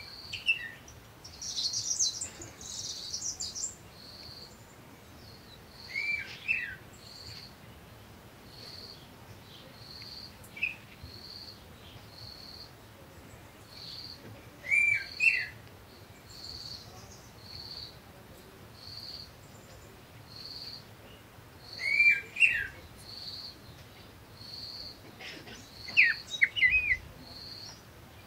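Birdsong: a short high chirp repeated about once a second, with louder warbling chirp phrases every few seconds.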